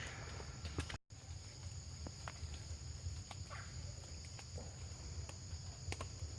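Rainforest ambience: a steady high-pitched insect drone over a low rumble, with scattered small clicks and ticks. It cuts out briefly about a second in.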